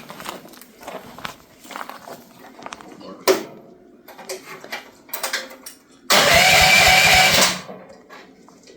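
Clicks and knocks from the controls, then a small choked petrol engine on a mini excavator being cranked by its electric starter for about a second and a half with a whining, fast-pulsing sound. It stops without catching.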